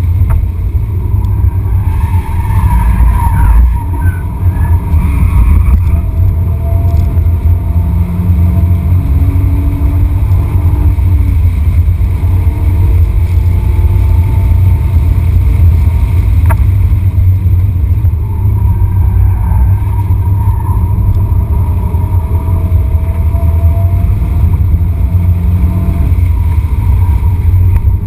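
BMW 330i's straight-six engine running hard under load, heard from inside the cabin as a loud, low drone mixed with road noise. Its pitch rises and falls with the revs.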